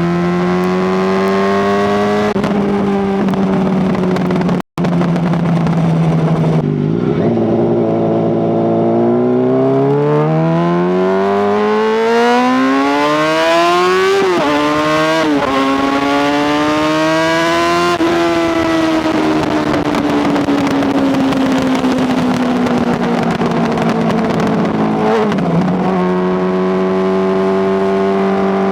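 Honda CBR600RR inline-four sport bike engine and exhaust running loud under riding, picked up by a microphone taped to the bike. The revs climb and step down through gear changes, with a long pull to high revs and quick shifts near the middle. After that the revs fall slowly as the throttle is rolled off, settling to a steady lower note near the end. The sound cuts out for an instant about five seconds in.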